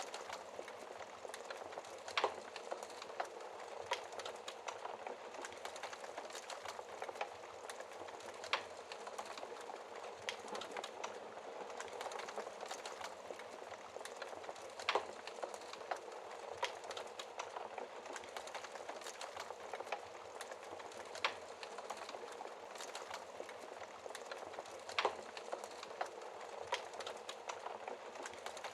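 Wood fire crackling in a fireplace: a steady hiss of fine crackles, with a louder sharp pop every few seconds.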